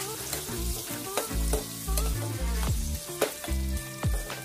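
Mutton liver and lung pieces frying in oil with onions in a metal pot, sizzling steadily. A metal spatula stirs them, scraping and knocking against the pot several times.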